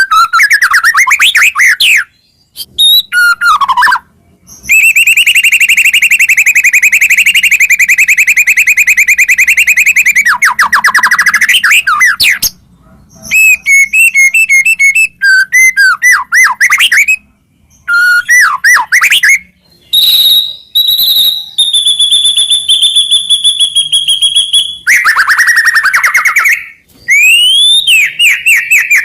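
White-rumped shama singing loudly: a varied run of whistled phrases, up-and-down sweeps and fast trills, broken by short pauses. About five seconds in comes a fast trill held for around five seconds.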